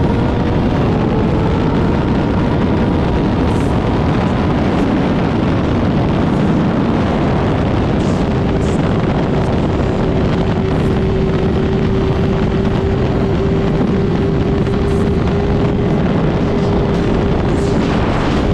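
Motorcycle engine running at a steady cruise under heavy wind rush on the microphone. Its tone eases slightly lower in the first few seconds, then holds steady.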